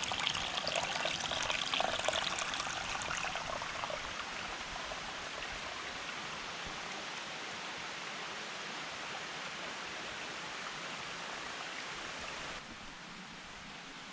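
Water rushing and splashing, loudest for the first few seconds, then settling into a steady hiss that drops in level near the end.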